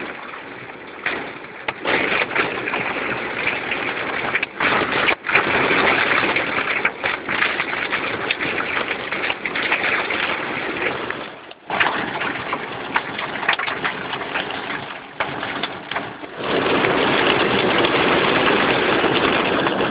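Rain on a moving car and tyres on a wet road, heard from inside the car; the noise swells and dips, and grows louder for the last few seconds.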